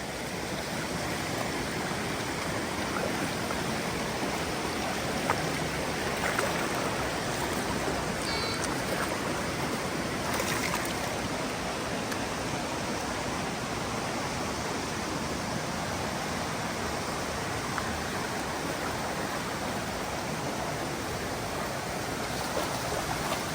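Mountain stream rushing steadily over rocks, with a few faint knocks in the first half.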